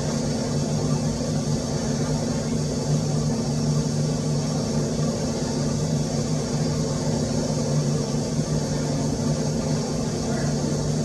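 A steady low mechanical hum of constant pitch, unchanging throughout.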